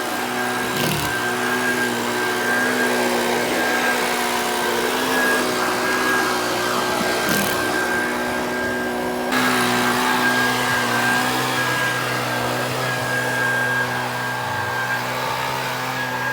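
A power tool running at a steady speed, with a low hum and a high steady whine.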